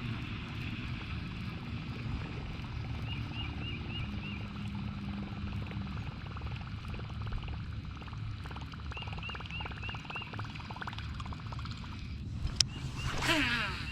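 Electric trolling motor humming steadily, with short runs of four or five high chirps from a calling animal twice along the way. Near the end comes a sharp click, then a loud falling whir.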